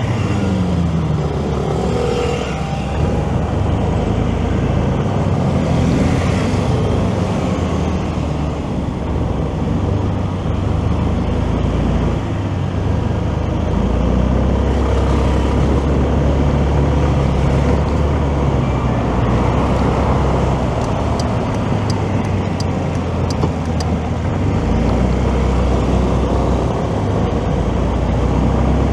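Motorcycle engine running through city traffic, its pitch rising and falling with the riding, over steady road noise. A short run of faint high clicks comes about three quarters of the way through.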